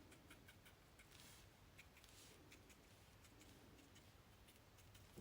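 Near silence, with faint soft strokes and light ticks of a paintbrush working paint onto paper.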